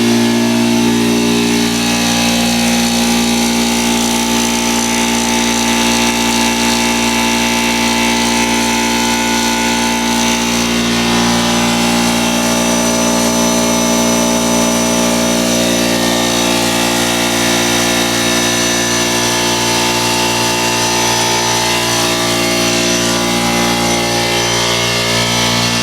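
Craftsman 4 hp single-cylinder oil-free air compressor running steadily under load, its motor and pump filling the 25-gallon tank toward its 120 psi cut-out.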